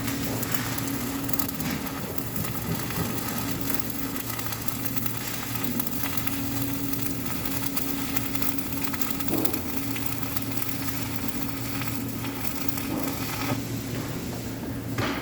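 Electric arc welding: a steady, continuous crackle and sizzle of the arc, with a steady electrical hum underneath.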